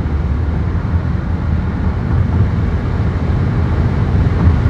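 Audi A6 allroad's tuned 3.0 TDI V6 diesel under full-throttle acceleration, a loud, steady low rumble of engine and road noise.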